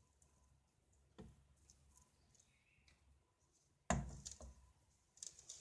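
Light knocks of dishware being handled: a soft knock about a second in, then a sharper, heavier knock about four seconds in, and light clattering near the end.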